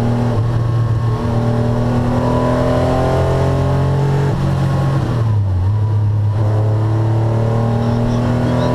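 1981 Porsche 911 SC's air-cooled 3.0-litre flat-six heard from inside the cabin, climbing steadily in pitch under acceleration. About halfway through the revs drop at an upshift, then climb again.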